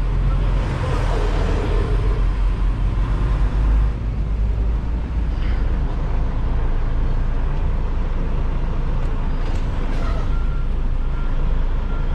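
Semi truck's diesel engine running at low speed under the cab, a steady low rumble heard from inside the cab while the truck creeps into position.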